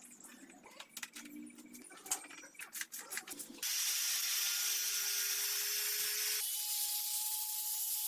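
Small clicks and taps of parts being handled, then about three and a half seconds in a small power tool starts and runs steadily with a hissing whine. About six and a half seconds in, its pitch steps up higher.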